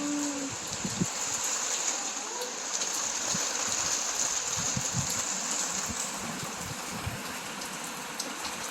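Heavy rain pouring steadily, with scattered low knocks of drops and runoff hitting nearby surfaces.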